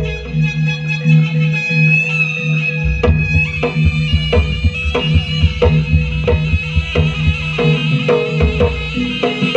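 Jaranan accompaniment music: hand drums beat a quick, even rhythm over sustained low tones, with a high held melodic line above them.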